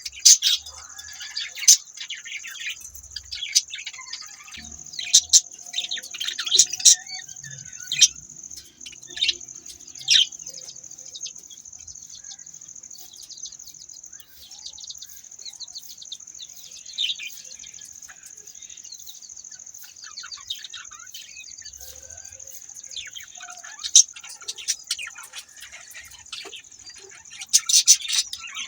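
Budgerigars chirping and twittering in many quick, sharp calls, some louder than others, over a steady high-pitched hiss.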